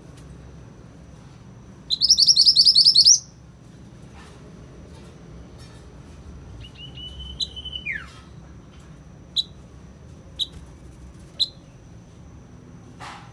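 Mantenan songbird (yellow variety) singing: a loud, rapid trill of high notes about two seconds in, then a drawn whistle that drops in pitch at its end, then three short sharp chips about a second apart.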